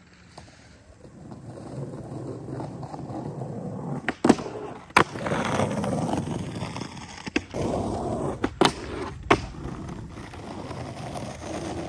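Skateboard rolling, with several sharp clacks of the board hitting the ground spread through the middle of the run.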